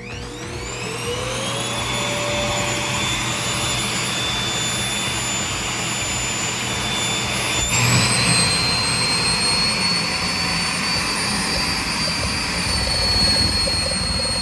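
Vacuum cleaner motor switched on, spinning up over about two seconds to a steady high whine with rushing air. About eight seconds in, the whine steps abruptly to a higher pitch and holds there.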